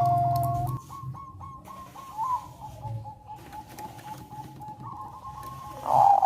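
Zebra dove cooing: one long held note at the start, then a quieter stretch of fast, rippling notes, with loud clipped coos coming back near the end.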